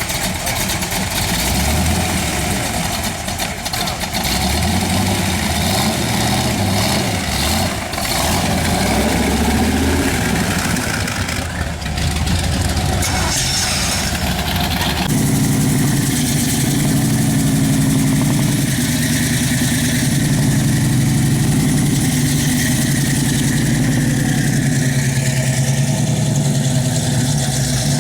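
Car engine running at idle, with a rapid steady pulsing note; about halfway through the sound changes suddenly to a louder, steadier engine.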